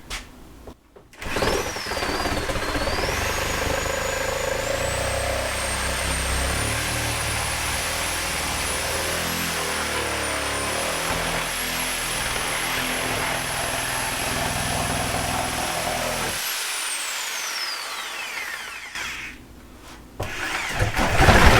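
Reciprocating saw (Sawzall) with a short demolition blade cutting through old wooden wall siding: the motor whine climbs as it comes up to speed, runs steadily with the rattle of the blade in the wood, then winds down when the trigger is let go. The saw starts up again near the end.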